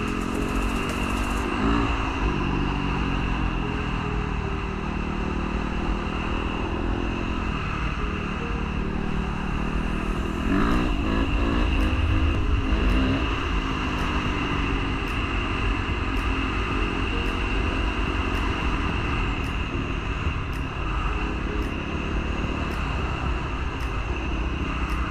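Dirt bike engine running on a trail ride, the revs rising and falling again and again as the throttle opens and closes through the gears, loudest about ten to thirteen seconds in.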